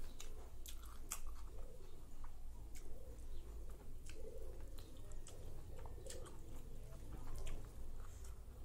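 Close-up mouth sounds of someone eating rice and curry by hand: wet chewing with scattered sharp lip smacks and clicks.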